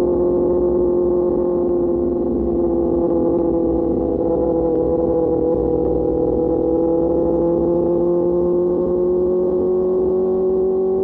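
QJ Motor SRK600's inline-four engine, breathing through an SC-Project exhaust, running steadily at cruising revs; its pitch sags a little, then climbs slowly through the second half.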